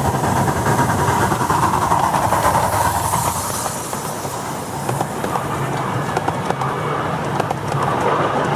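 Miniature steam railway train running along the track, its wheels clicking steadily over the rail joints with a ringing hum from the rails.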